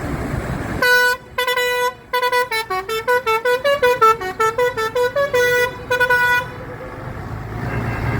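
A vehicle's musical horn playing a tune: a couple of held notes, then a quick run of short notes stepping up and down, ending on held notes, lasting about six seconds.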